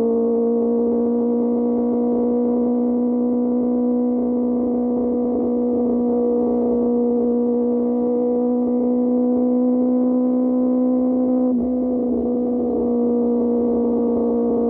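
QJ Motor SRK600 inline-four engine through an SC-Project exhaust, holding a steady high-pitched drone at a nearly constant speed, with a brief dip in level about twelve seconds in.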